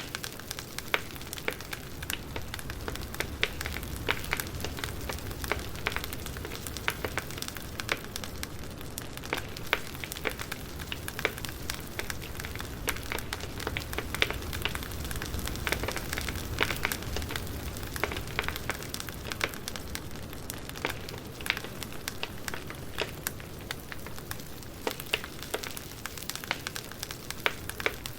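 Wood fire crackling: frequent sharp pops and snaps at irregular intervals over a low, steady rumble of burning.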